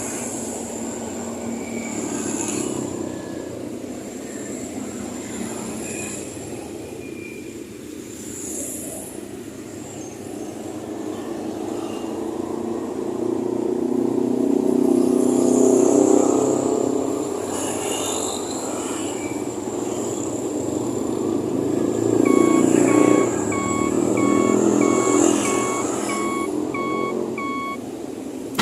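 Vehicle running noise that swells and fades. In the last six seconds an electronic beeper sounds evenly, about one and a half beeps a second, like a reversing alarm.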